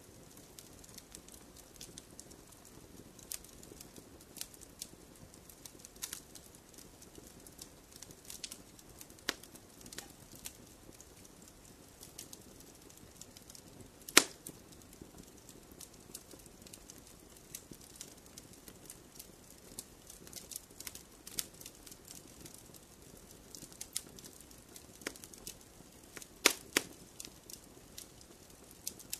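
Wood fire burning in a fireplace: a soft steady rumble of flames with irregular crackles and pops from the burning logs, one sharp pop about halfway through and a quick run of pops near the end.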